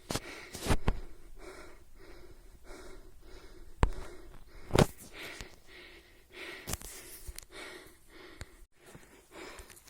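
A climber breathing hard in rhythmic puffs, about one or two a second, while climbing uphill, with a few sharp knocks in between.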